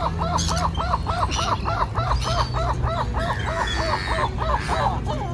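A bird calling in a fast, even series of short notes, about four or five a second, that stops near the end.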